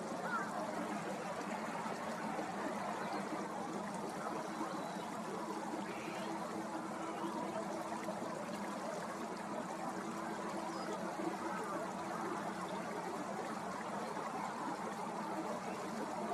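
Steady trickle and rush of flowing water, even throughout, with a faint low hum underneath.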